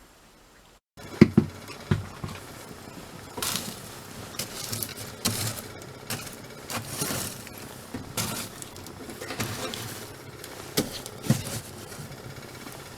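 Irregular scratching and scrabbling with scattered light knocks, a squirrel moving about under a camper floor.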